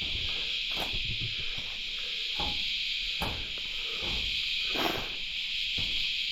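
Steady, high-pitched chorus of insects in forest, with a few soft scattered knocks.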